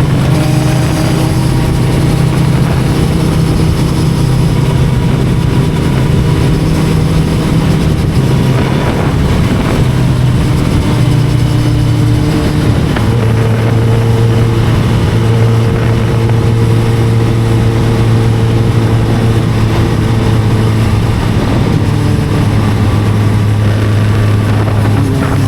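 Inline-four sport motorcycle engine running under way at steady revs, its note stepping up or down in pitch a few times, about ten, thirteen and twenty-two seconds in and again near the end.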